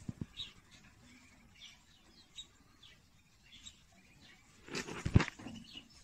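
Small birds chirping faintly and sporadically. About five seconds in there is a burst of rustling and bumps from handling.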